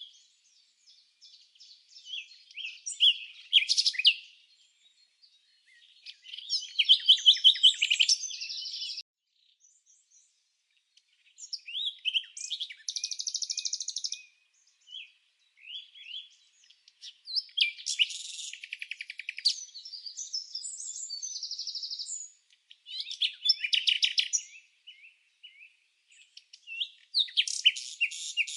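Songbird song: bursts of fast, high chirps and rattling trills lasting a second or two each, with short pauses between them.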